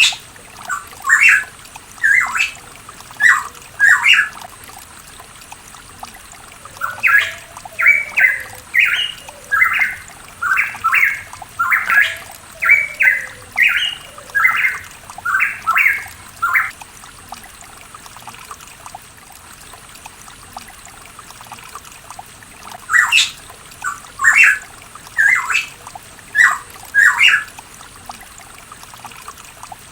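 Pitohui singing runs of short, clear whistled notes, delivered in phrases broken by pauses of a few seconds, over a steady trickle of water.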